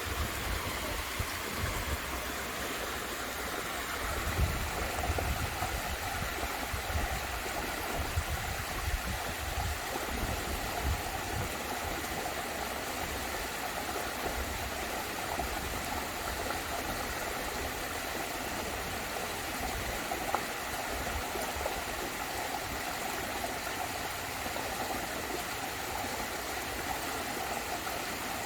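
Steady rush of falling water from a small garden waterfall, with low rumbling gusts through the first ten seconds or so.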